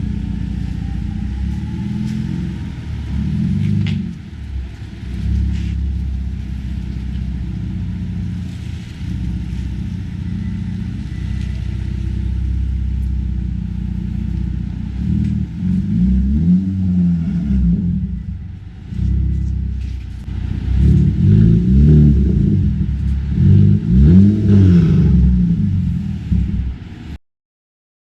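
Car engine with a deep exhaust note running, blipped into several revs in the second half, its pitch rising and falling with each rev. The sound cuts off suddenly near the end.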